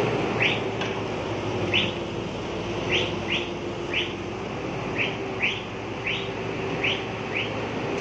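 A bird chirping repeatedly in short falling notes, about eleven in all at irregular intervals, over the steady running of heavy diesel machinery.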